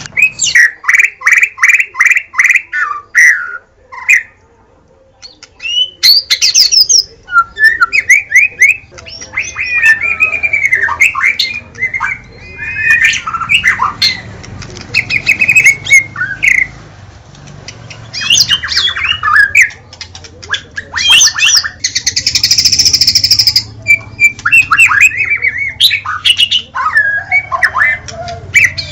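White-rumped shama (murai batu) singing a loud, varied song. It opens with a fast run of repeated notes, goes on through many rising and falling whistled phrases, and gives a harsh rasping burst about two-thirds of the way through.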